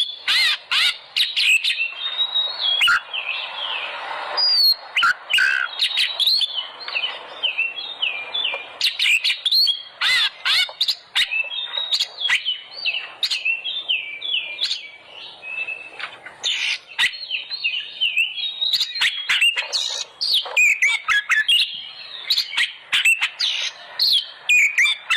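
Oriental magpie-robin (kacer) singing continuously: a fast, varied string of short whistled notes, slurs and chattering phrases.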